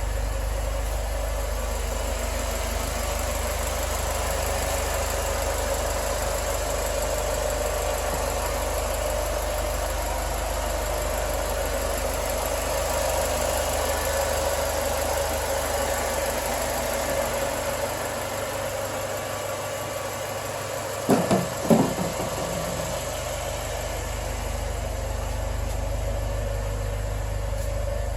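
A Mercedes-Benz C250's engine idling steadily, with two short knocks about three quarters of the way through.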